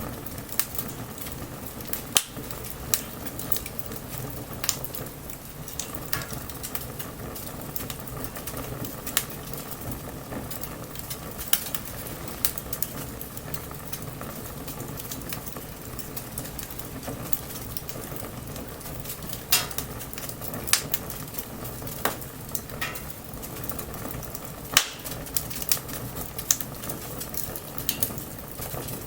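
Wood bonfire burning: a steady hiss with irregular sharp crackles and pops from the wood, and a few louder snaps scattered through.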